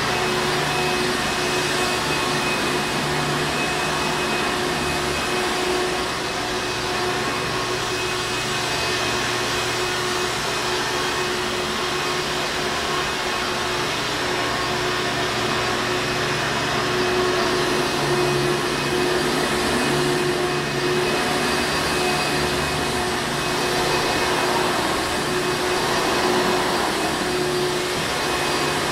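Hoover Encore Supreme upright vacuum cleaner running steadily, its motor holding a constant hum and whine over a wide rushing of air.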